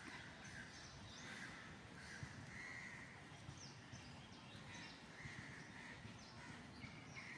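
Faint bird calls, short and repeated every second or so, over a quiet background hiss.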